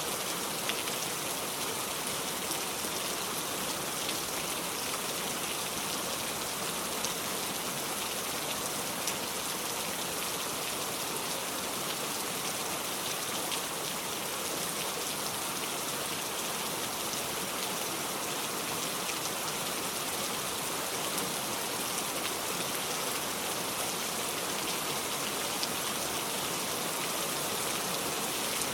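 Steady rain, an even hiss that never lets up, with scattered sharp ticks of single drops.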